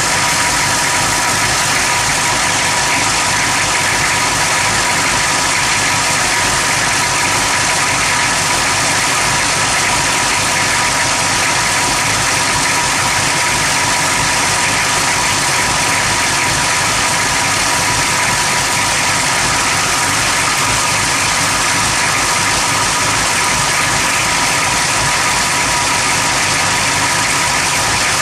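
Engine idling roughly, heard close up at the motor: a steady loud running noise with an uneven low pulsing underneath.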